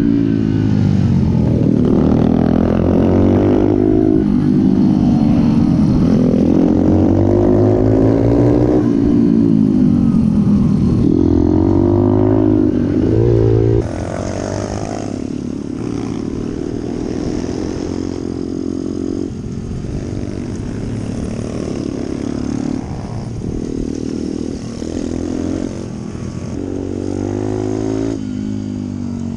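Pit bike engine revving hard, its pitch climbing and falling again and again as the bike accelerates and shifts or backs off. About halfway through the sound drops suddenly in level and carries on more quietly.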